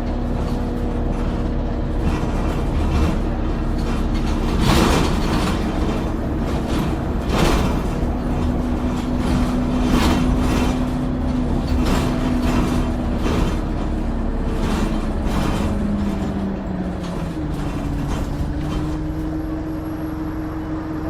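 Double-decker bus heard from on board while driving: the engine runs with a loud turbo whistle held as a steady whine. About 15 seconds in the whine sinks, then steps up to a higher pitch, and the body rattles and knocks over bumps throughout.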